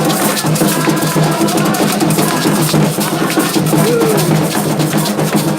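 Ceremonial drumming: hand drums struck in dense, continuous strokes, with voices singing over them, typical of Candomblé percussion.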